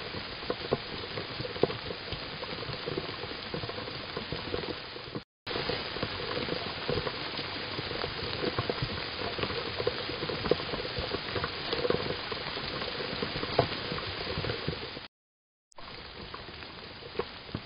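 Rain pattering on the leaves around a robin's nest, a steady hiss dotted with many small drop ticks, picked up by a security camera's microphone. The sound cuts out briefly twice, about five and fifteen seconds in.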